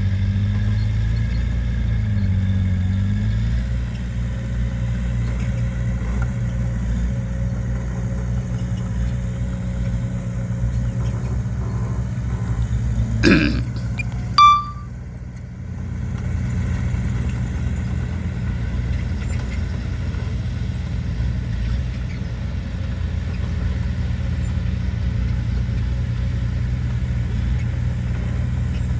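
Heavy earthmoving machinery's engine running with a steady low drone, its pitch wavering briefly near the start. About halfway through come two sharp knocks a second apart, the second with a short metallic ring.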